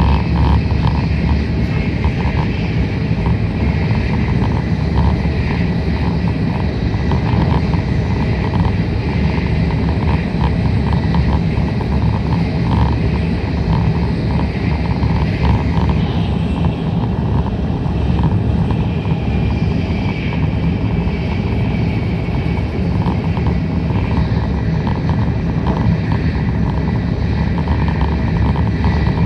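Tokaido Shinkansen train running at speed, heard inside the passenger car: a steady low rumble of wheels on track with a lighter hiss of air over it.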